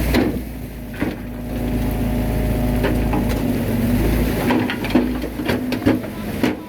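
Bulldozer's diesel engine running with a steady low rumble and hum, with clanks and knocks. The low rumble drops away about four and a half seconds in.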